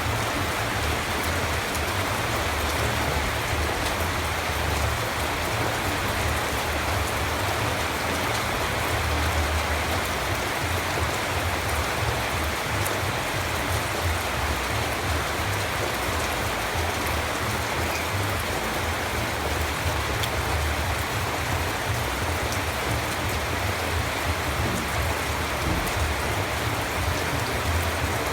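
Steady rain falling and pattering on surfaces, an even hiss with scattered drop ticks over a low rumble.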